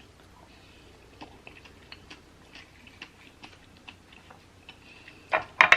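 Faint, irregular wet mouth clicks and smacks of someone chewing soft fruit close to the microphone, with a few louder smacks near the end.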